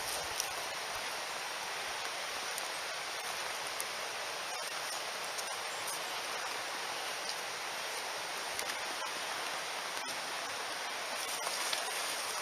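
Mountain stream rushing steadily, with a few faint ticks.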